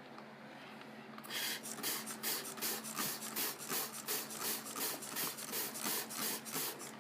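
Soft-touch automatic car wash brushes sweeping over the car, a rhythmic rubbing swish about three times a second that starts about a second in.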